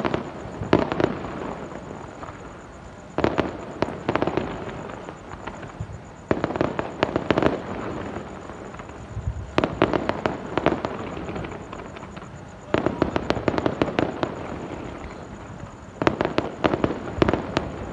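Fireworks display: aerial shells bursting in six salvos of rapid crackling pops, one about every three seconds.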